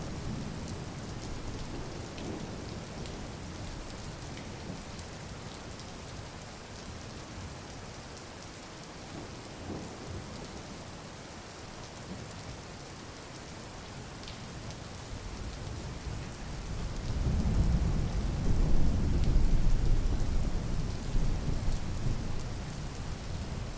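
Steady rain falling, with scattered drop ticks. A long, low roll of thunder builds about two-thirds of the way in, becomes the loudest sound, then slowly fades.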